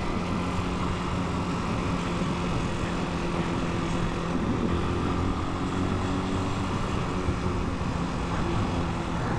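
Italika 250 motorcycle engine running at a steady cruise, its pitch holding level, with wind and road noise.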